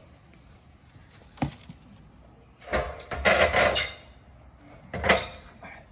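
A short knock, then a longer rattling clatter, then one sharp bang: hard objects being handled and knocked together.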